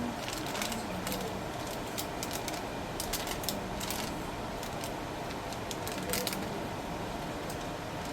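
Scattered light clicks and clatter over a steady background hum, with a few sharper clicks about three seconds in and again about six seconds in.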